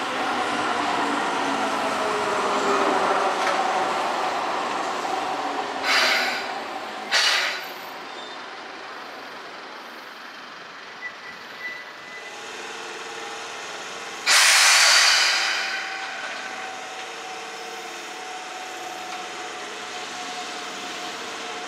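An older Keihan electric train from before VVVF control, slowing at a station, its motor and gear whine falling in pitch. Two short air hisses come near the middle, then a loud air-brake hiss about two-thirds through, after which a steady hum carries on.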